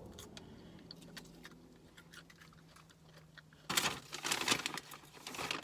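Chewing with small mouth clicks, then about four seconds in, a sandwich wrapper crinkling loudly for a couple of seconds.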